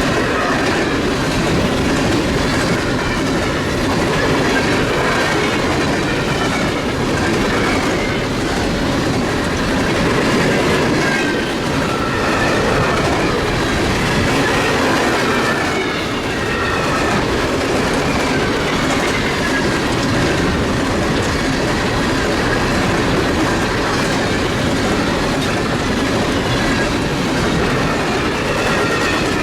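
Freight train cars rolling past, steel wheels clattering over the rail joints, with a faint wavering squeal of wheel flanges against the rail.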